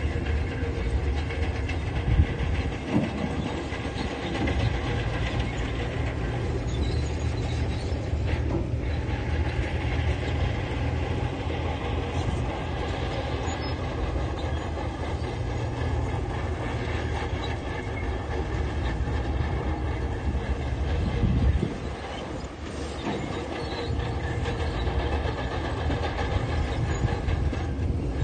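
Tracked heavy machine working: a diesel engine running steadily under load with the clatter of crawler track links, and a single knock about two seconds in.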